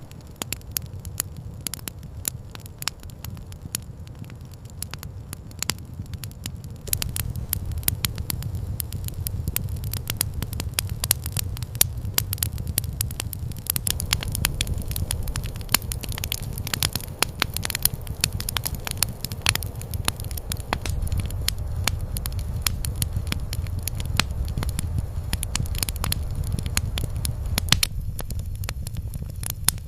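Campfire crackling and popping with many sharp irregular snaps over a steady low rumble. The crackling grows busier and louder about seven seconds in.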